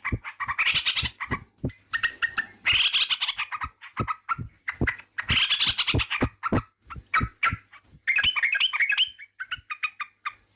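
Yellow-vented bulbul (trucukan) singing: short, rapid chattering phrases repeated every couple of seconds, with sharp clicks among the notes.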